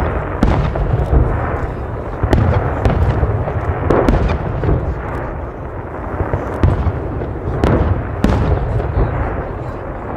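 Fireworks going off in quick succession: many sharp bangs, some louder than others, over a continuous low rumble and crackle.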